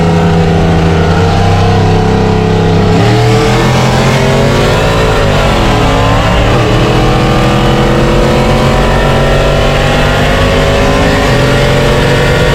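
Pickup truck engine running under way, its note climbing slowly in pitch and then dropping shortly before the end.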